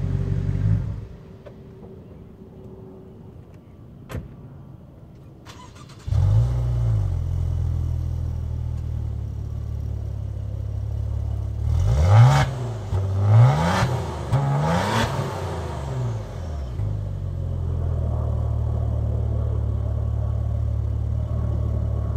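A Maserati GranTurismo's 4.7-litre V8 idles and shuts off about a second in. A few seconds later a Maserati Ghibli's 3.0-litre twin-turbo V6 starts with a brief flare and idles, is revved three times in quick blips around the middle, then settles to a steady idle.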